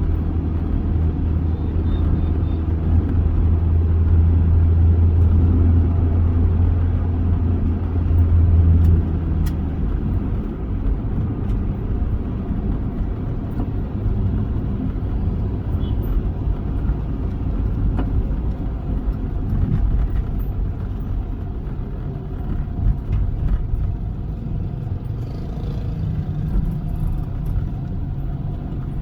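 Toyota Avanza driving: a steady low drone of engine and road noise, with a strong low hum that drops away about nine seconds in.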